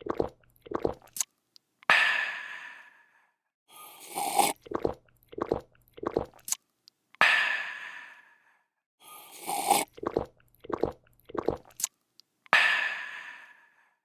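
A person drinking, in a repeating loop: a slurp, a few quick gulps, then a long refreshed 'aah' that fades out. The cycle comes round about three times, roughly every five seconds.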